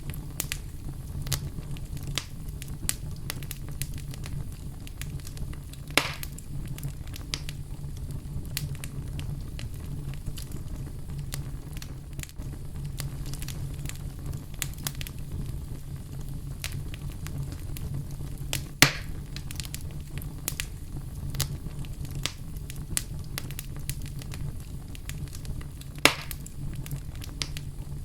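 Wood fire burning in a fireplace: a steady low rumble of the flames with constant small crackles and a few louder pops, three of them standing out.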